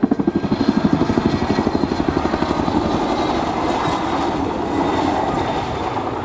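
Boeing CH-47 Chinook helicopter's tandem rotors beating in a fast, even pulse of about ten beats a second. The pulsing softens over the last few seconds into a steadier rotor and turbine rumble.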